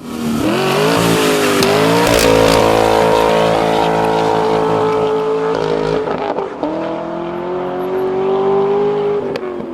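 2025 Cadillac Escalade with a Borla Pro-XS crossflow-muffler true dual exhaust, accelerating hard. The engine note climbs and holds, dips about six seconds in, climbs again, then fades out near the end.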